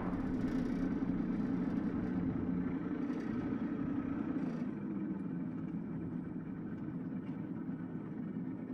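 An engine running steadily, a low even drone that eases off slightly toward the end.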